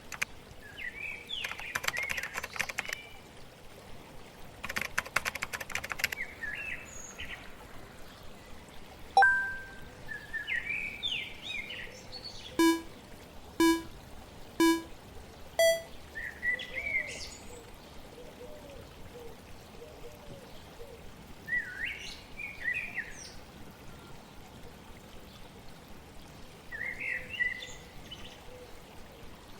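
Steady flowing water with small songbirds chirping in short phrases throughout, and two brief scratchy bursts early on. About nine seconds in there is a single ding. Then come four electronic timer beeps a second apart, three low and a final higher one, like a countdown starting the timer.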